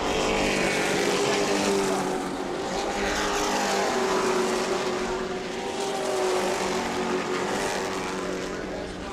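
A pack of Pro Truck stock-car racing trucks running at speed on the asphalt oval. Several engines are heard at once, and their pitch drops as trucks pass by.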